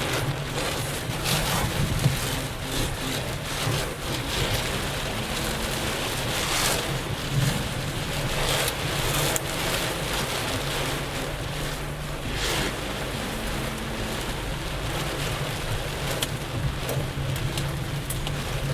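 Car driving in rain on a wet highway: a steady hiss of rain and tyres on the wet road over a low engine hum, with brief louder swishes now and then.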